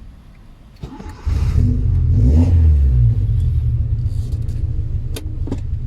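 1996 Honda Civic VTi's four-cylinder engine starting: a sudden low rumble a little over a second in, flaring up, then settling to a steady idle. Two short clicks near the end.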